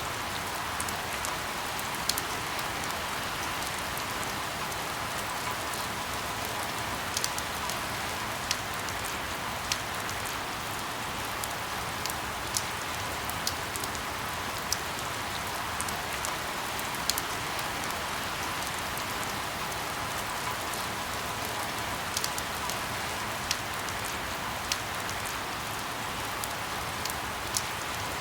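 Steady rain falling on a surface, a continuous even hiss with scattered louder individual drop ticks.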